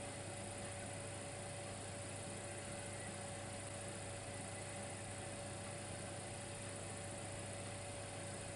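Steady electrical hum with a constant hiss and a single steady mid-pitched tone, unchanging throughout.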